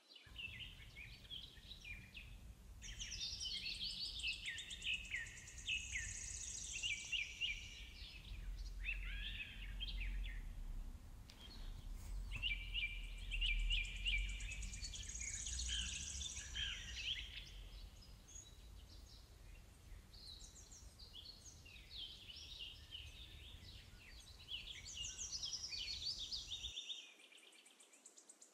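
Several songbirds singing: quick chirps and trills in bursts with short pauses, over a low steady rumble that stops shortly before the end.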